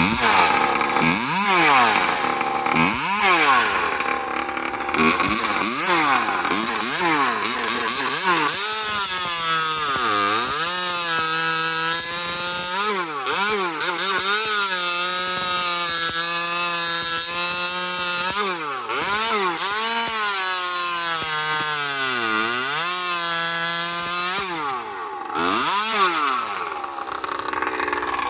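Husqvarna 543XP two-stroke chainsaw with an aftermarket expansion pipe, revved in short blips about once a second, then held at high revs with repeated dips in pitch, as when it bogs and recovers in a cut. The low-speed (bottom-end) carb mixture is in question, rich or lean.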